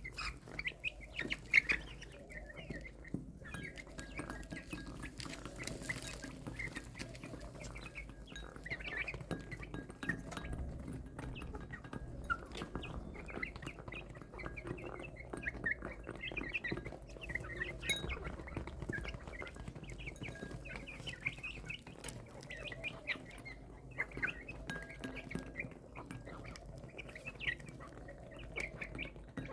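Chicks peeping continually: many short, high cheeps, irregular and overlapping, over a low steady background rumble.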